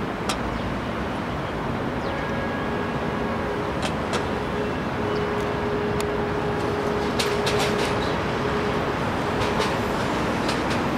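Passenger train hauled by an HXD3D electric locomotive running past: steady noise of wheels on rail with scattered sharp clicks and a faint steady tone partway through.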